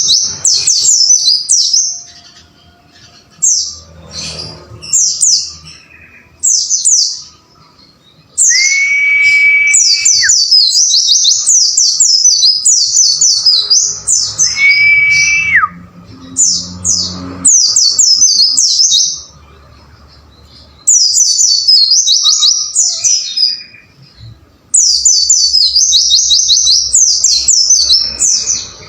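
White-eye (pleci) singing in bursts of rapid, high chirping twitters a few seconds long, with short pauses between them. Twice near the middle, a lower, long, steady whistle is held for about a second and a half.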